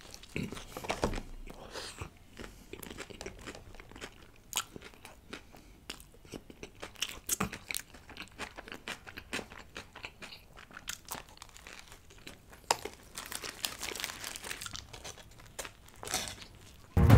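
Close-miked chewing, biting and wet mouth sounds of a man eating a Subway tuna sub, as irregular soft smacks and clicks, with some light rustling of the sandwich's paper wrapper. Music comes in loudly right at the end.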